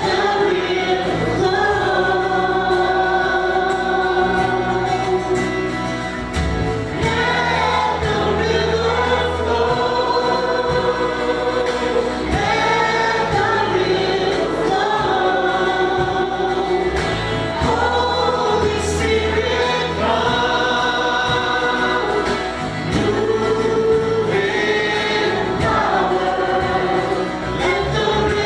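Worship music: a group of voices singing long held phrases together over a band with sustained bass notes.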